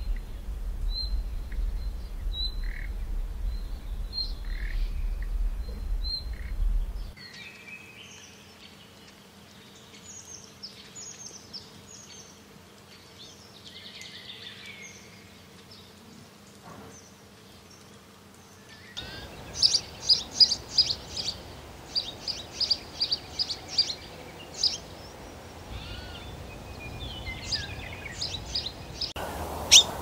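Birds chirping and calling in several short clips edited one after another. First come sparse high chirps over a low rumble, then a busier mix of whistles and chirps. Loud runs of sharp, quickly repeated calls fill the last third.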